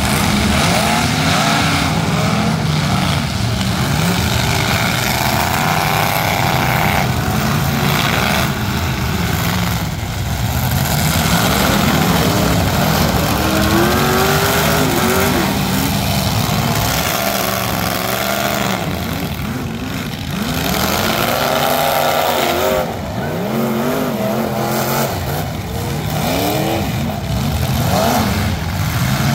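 Several full-size demolition derby cars' engines revving up and down at once, their pitches rising and falling over one another continuously.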